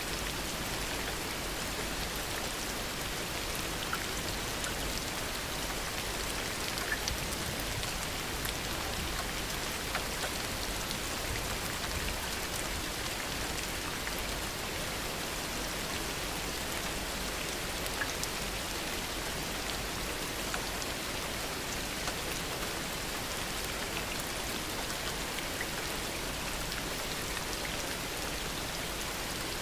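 Steady heavy rain falling, with the occasional sharper drop tick standing out from the even hiss.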